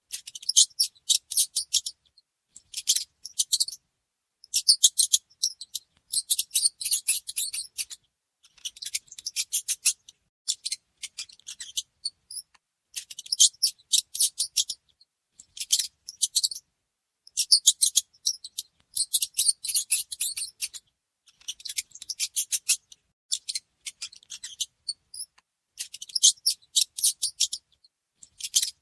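Mice squeaking: bursts of rapid, very high-pitched chirping squeaks, each lasting about a second, repeated every second or two with short pauses between.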